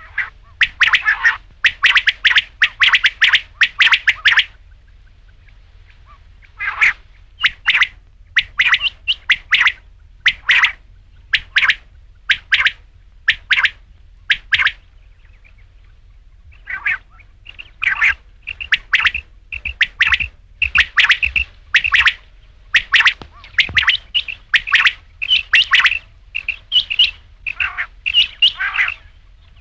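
Quail calling: short, sharp calls repeated rapidly in bursts, with brief pauses about five seconds in and again about fifteen seconds in.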